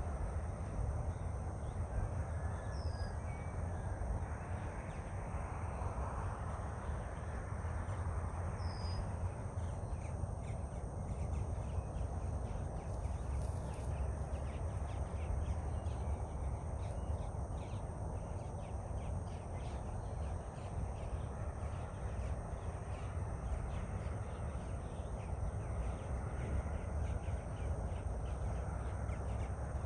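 Outdoor ambience of birds calling over a steady low rumble, with two short high chirps in the first ten seconds.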